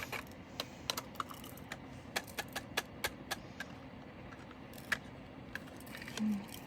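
Small plastic diamond painting drills clicking and rattling as they are handled and poured, in quick irregular clicks that thin out in the second half. A brief low hum comes near the end.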